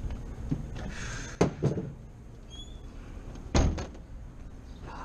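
A few sharp knocks and clunks, the kind a door or metal panel makes when handled: two close together about a second and a half in, and a louder one about three and a half seconds in.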